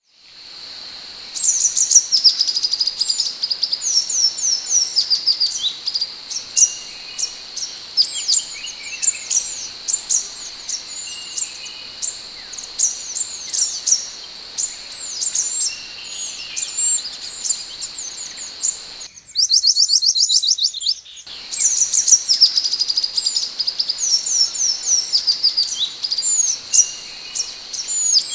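Scarlet minivet (sepah hutan) singing a rapid, continuous run of high, thin chirping notes over a steady high-pitched tone. About two-thirds through, the song breaks for about two seconds of very fast, high ticking, then resumes.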